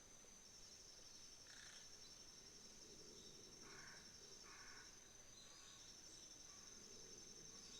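Autumn insects trilling in a high, steady, finely pulsed chorus, faint. A few short lower chirps break in about two, four and five seconds in.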